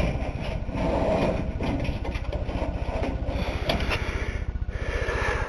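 A steady low mechanical hum that pulses rapidly and evenly, like an idling engine, with scattered rustling and light knocks on top.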